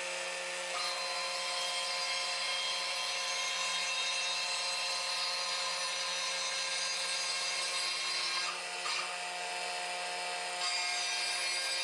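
CNC router running with a 1/4-inch down-cut end mill, skimming the saw marks off the cut surface of a Bolivian rosewood box half. It is a steady high whine with a hiss of cutting, which eases off briefly about three-quarters of the way through.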